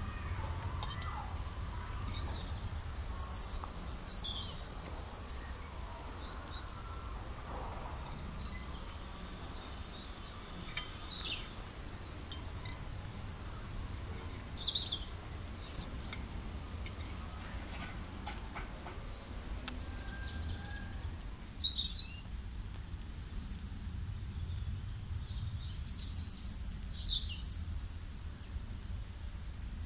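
Small birds chirping and calling on and off, in short high calls, over a steady low rumble.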